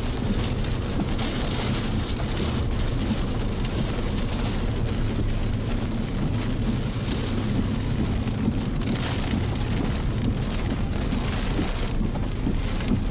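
Strong wind from a tornado blowing steadily and buffeting the microphone, a dense rushing noise with a heavy low rumble and a few brighter gusts.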